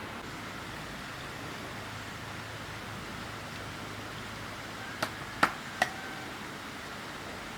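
Steady background hiss, then three sharp knocks in quick succession about five seconds in, the second the loudest, each with a brief ring after it.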